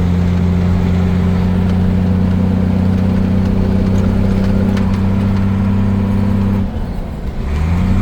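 Truck engine droning steadily under load, heard from inside the cab. About six and a half seconds in the drone drops away, then its pitch climbs again near the end.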